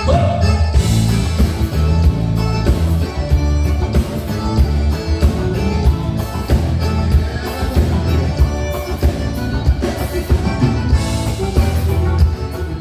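Live band starting a song: an amplified instrumental introduction with a steady beat, before any singing.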